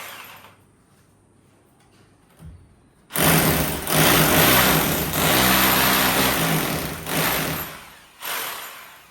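Electric drill boring into the wall, its motor running steadily for about five seconds from about three seconds in, then a short second burst near the end.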